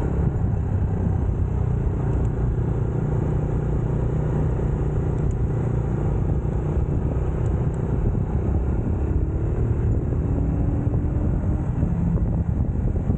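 UM Scrambler X motorcycle engine running steadily while under way, heard from the rider's position, its pitch wavering slightly in the second half.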